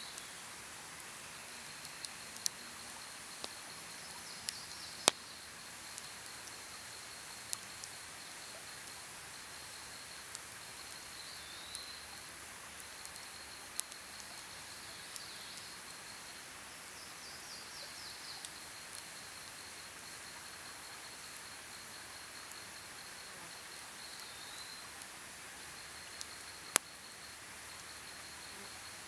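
Campfire crackling, with scattered sharp pops of burning wood, the loudest about five seconds in and near the end. A steady, high, pulsing insect trill runs behind it with a few short gaps, and a few short falling chirps sound now and then.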